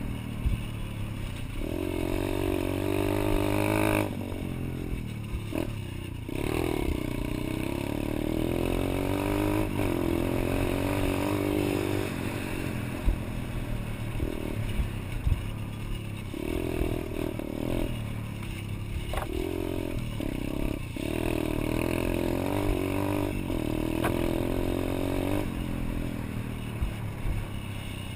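Pit bike engine being ridden, revving up and falling back again and again, with a few sharp clicks and rattles along the way.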